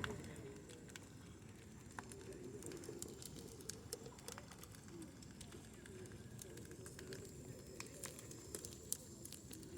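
Bonfire crackling faintly, with irregular sharp pops and snaps scattered throughout, over a faint low wavering sound.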